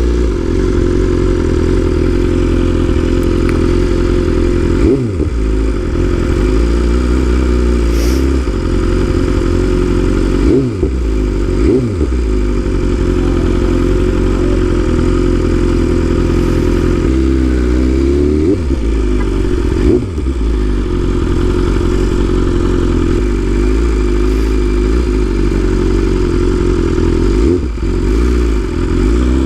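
BMW S1000RR inline-four engine running at low road speed, heard from on the bike, with its revs dropping and picking up again several times as the throttle is eased off and reopened.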